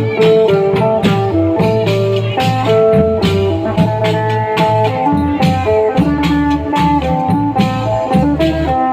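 Thai klong yao long-drum band playing: a busy plucked-string melody over steady drums and percussion hits.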